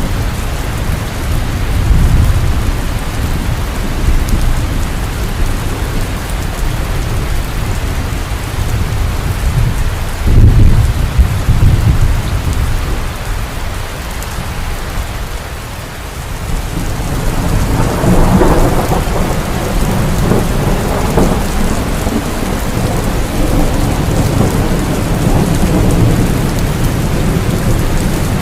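Heavy rain falling steadily, with rolling thunder rumbling underneath; the loudest rumble swells about ten seconds in, and the rain grows heavier around eighteen seconds.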